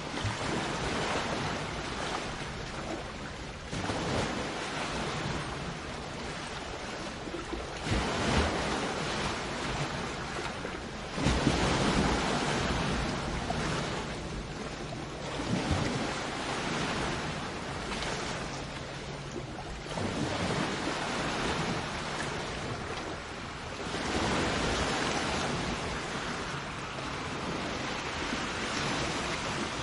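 Sea waves breaking and washing up the shore, the wash swelling and ebbing every few seconds, with the biggest surge about eleven seconds in.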